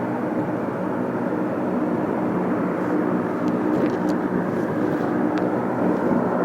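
Ilyushin Il-18 airliner's four Ivchenko AI-20 turboprop engines and propellers running with a steady drone of several low, even tones.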